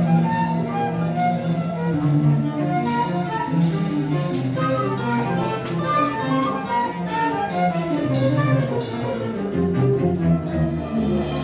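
Instrumental music led by bowed strings, held notes changing every fraction of a second.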